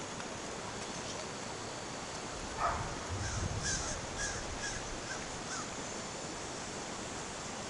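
A bird calling: one louder sliding call, then a quick string of about six short calls.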